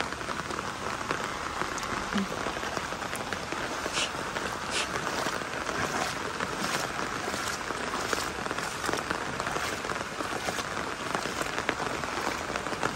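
Heavy rain falling on a flooded road, a dense, steady hiss with a few sharper drop taps.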